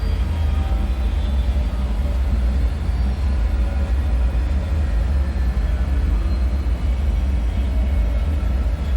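Dark ambient drone of a creepy bunker soundscape: a steady, deep rumble with faint, thin tones drifting above it.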